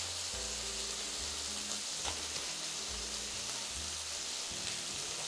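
Chicken breasts frying in vegetable oil in a skillet: a steady sizzle.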